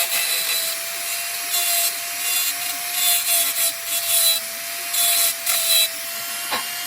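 A small motor-driven tool runs with a steady whine, its pitch sagging slightly as it is loaded. About eight short rasping bursts come from the cutter working against metal, deburring the work, and there is a single click near the end.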